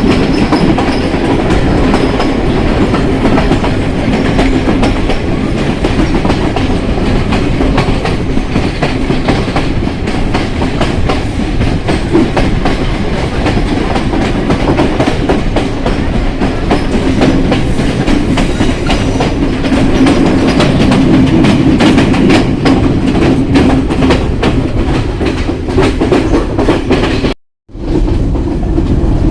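Passenger train running along the track: a steady rumble with rapid clicking of the wheels over the rails. The sound drops out for an instant a little after 27 seconds in.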